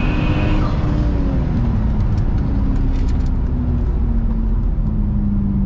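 BMW 135i's twin-turbo N54 inline-six heard from inside the cabin, running under a deep, steady low rumble, its pitch slowly falling as the revs drop.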